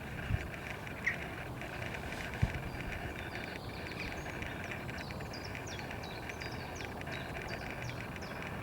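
Outdoor nature ambience: a steady hiss with a run of short, high bird chirps starting about three seconds in. A brief low thump comes about two and a half seconds in.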